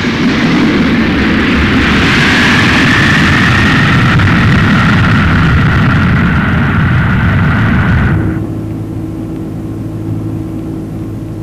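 Aircraft engines running loud, a roar with a high whine that rises slightly and then holds. The sound cuts off suddenly about eight seconds in, leaving quieter steady tones.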